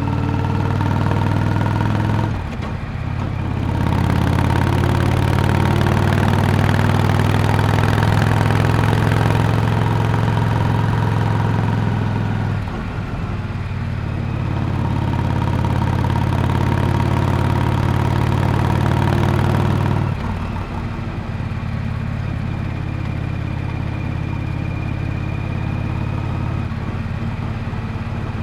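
Exhaust of a Yamaha Drag Star 400 Classic's V-twin engine while riding, the note holding steady with two short dips about three and thirteen seconds in, then dropping to a quieter level from about twenty seconds.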